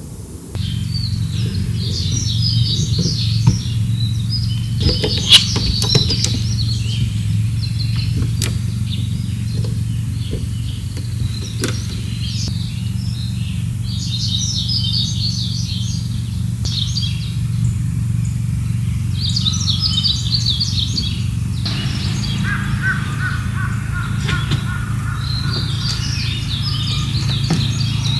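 Small birds chirping in repeated bursts of short, high calls over a steady low hum, with a few sharp clicks in the first half.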